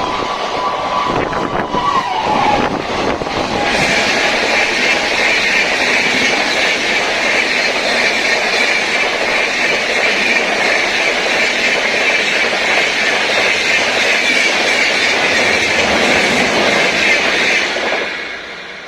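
Indian Railways express train passing at speed. The horn's tail fades out and drops in pitch about two seconds in. Then comes a loud, steady rolling noise of wheels on rail for about fourteen seconds, which falls away near the end as the last coach clears.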